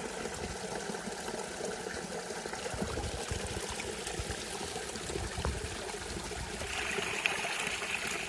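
Forest stream flowing steadily.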